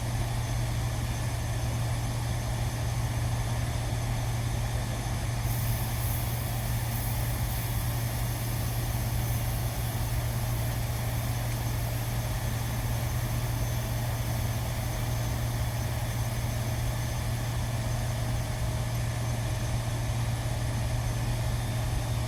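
Steady low machine hum with a constant background rush, unchanging in level.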